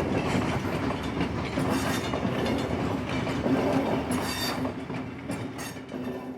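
Freight train cars rolling past on jointed rail, with steady wheel rumble and clickety-clack and a couple of brief high wheel squeals in the second half. The sound fades toward the end as the train moves away.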